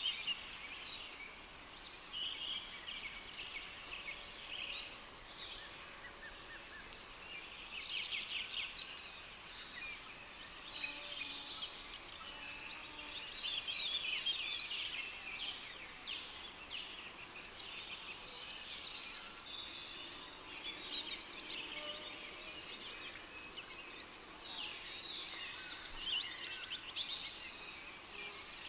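Tropical rainforest ambience: an insect chirping in even high-pitched pulses, about five a second, pausing briefly near the middle, under many birds calling and chattering.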